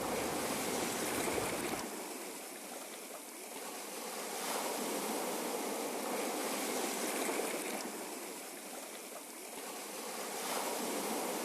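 Ocean waves washing in a steady hiss that swells and ebbs about every six seconds. The deep rumble under it drops away suddenly about two seconds in.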